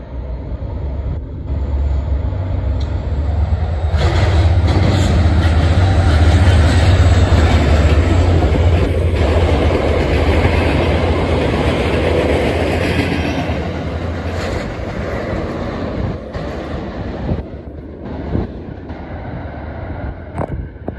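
An MBTA train passing close by with a heavy rumble of wheels on rail. It builds up over the first few seconds, is loudest for about ten seconds, then fades as it moves away.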